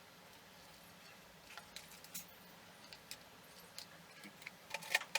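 Light, scattered clicks and taps of hands handling small tools and wires, with a quick run of ticks near the end.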